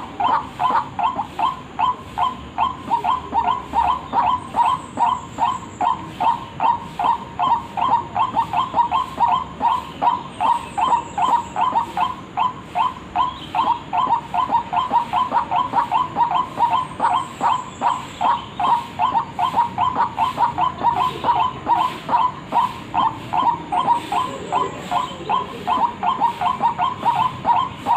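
White-breasted waterhen (ruak-ruak) calling over and over in a steady, even rhythm of about two calls a second: a lure call recording used to draw the birds in.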